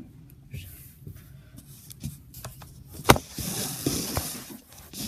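Plastic clicks and knocks as a Lego Volcano Crawler model is handled and set down on a desk, with one sharp click about three seconds in followed by a scraping rush for about a second and a half.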